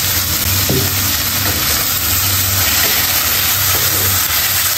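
Onion, tomato, chillies and curry leaves frying in hot oil in a pan, a steady sizzle with a few light scrapes of stirring.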